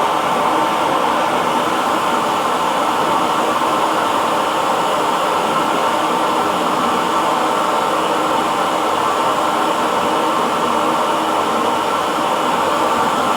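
Hair dryer running steadily, an even, unbroken whooshing rush of air and motor hum.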